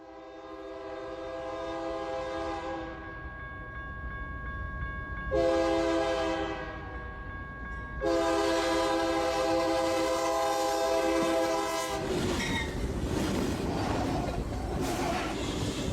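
Railway locomotive air horn sounding several tones at once in three blasts, the last and longest about four seconds, followed by the noisy rumble and clatter of the train running on the track.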